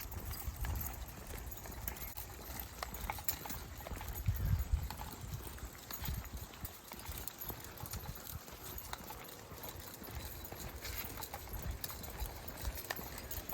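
Footsteps walking along a trail, a steady run of small crunches and knocks, over an uneven low rumble that swells about four seconds in.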